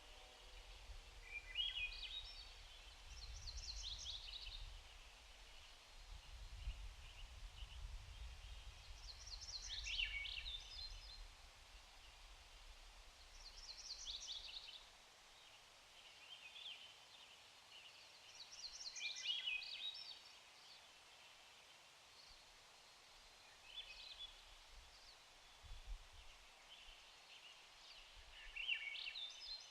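A songbird singing short, quick phrases about every five seconds, over a low, uneven rumble that swells in the first ten seconds.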